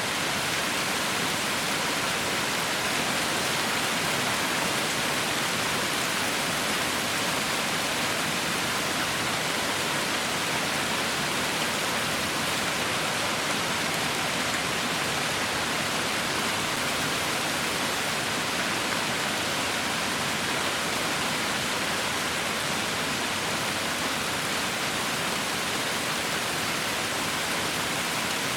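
Heavy rain falling in a steady, even hiss with no individual drops or thunder standing out.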